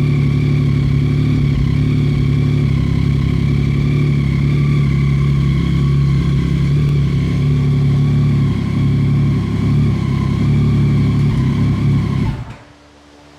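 Yamaha Tracer 9 GT's inline three-cylinder engine idling steadily after a fresh oil change, left running to circulate the new oil, until it stops abruptly near the end.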